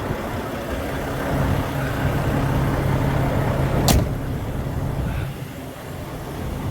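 Semi-truck engine idling with a steady low hum, and one sharp knock about four seconds in.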